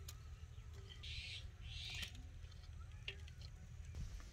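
Faint bird calls, a few short chirps, over a steady low rumble of the outdoor surroundings.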